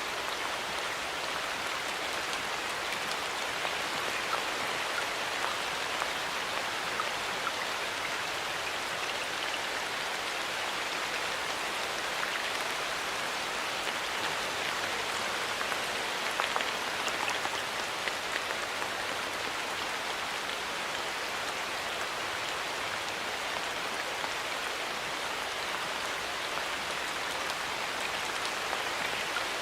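Steady rain falling in a forest, a dense patter of raindrops with small sharper drips scattered through it.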